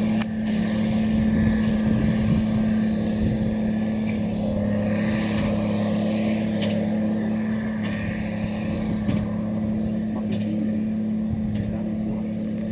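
Fendt 936 tractor's six-cylinder diesel running steadily under load while driving a Claas 5300 FC big square baler, with faint knocks recurring about once a second.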